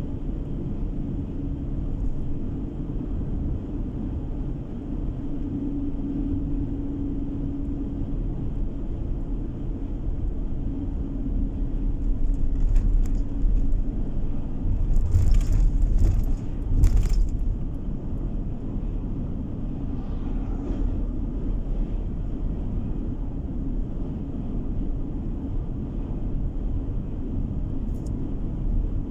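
Car driving along at road speed, heard from inside the cabin: a steady low rumble of tyres and engine. About halfway through it briefly grows louder, with a few sharp knocks or rushes.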